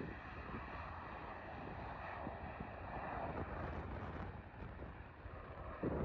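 Faint, steady rushing of a distant jet airliner's engines, a Jet2 Boeing 737 coming in to land, mixed with wind buffeting the microphone, and a brief low thump near the end.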